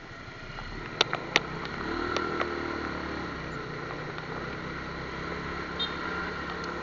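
Motorcycle engine running steadily, with a few sharp clicks about a second in.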